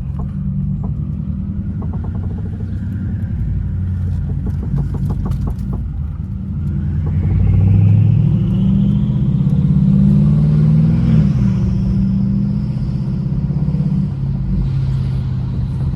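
BMW 550i twin-turbo V8 with catless downpipes and a straight-piped exhaust, running with a loud, deep rumble. About seven seconds in the revs climb, with a rising whine over the exhaust. They drop back near eleven seconds to a steady rumble.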